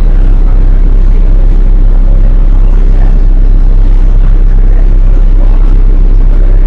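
Passenger ferry's engines running with a steady, loud drone, mixed with wind buffeting the microphone.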